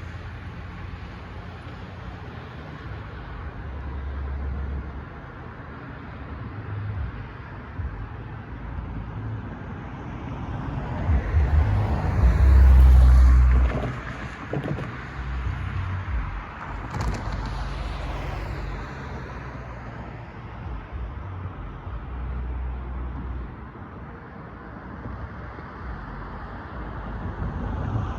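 Train rolling past, a steady rumble that swells to its loudest about 12 to 14 seconds in, with low buffeting of wind on the microphone.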